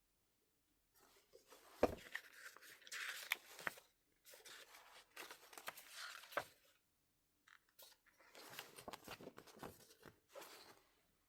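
Album packaging opened by hand: plastic and paper wrapping tearing and crinkling in three spells of rustling, with a few sharp snaps among them.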